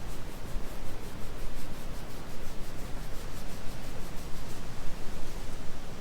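Wind buffeting the microphone, a steady low rumble. A rapid, high-pitched scratching or rubbing, about five strokes a second, runs alongside it and stops about four and a half seconds in.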